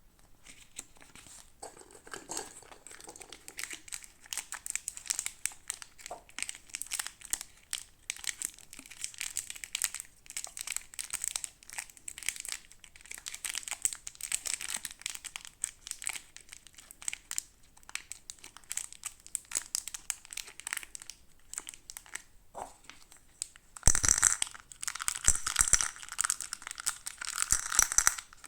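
Toy packaging being crinkled and handled during unboxing, a steady run of small irregular crackles that gets clearly louder for the last few seconds.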